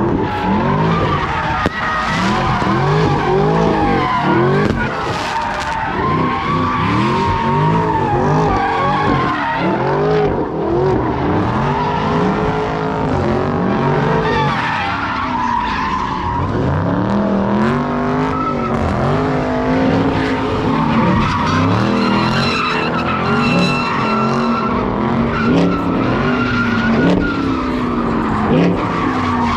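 Car engines revving hard, rising and falling in pitch again and again, over continuous tyre squeal from wheels spinning on pavement in burnouts.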